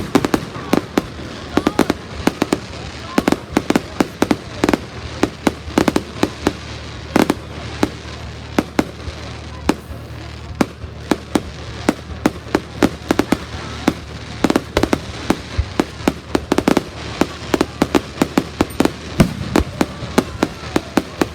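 Fireworks going off without let-up: many sharp bangs and crackles in irregular quick succession, several a second, over a steady low rumble.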